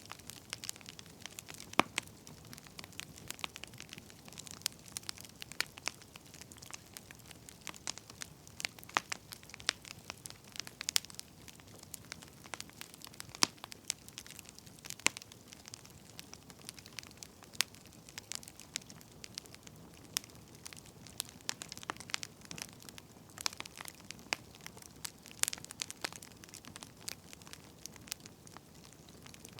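Wood fire crackling, with irregular sharp pops and snaps of varying loudness over a soft steady hiss.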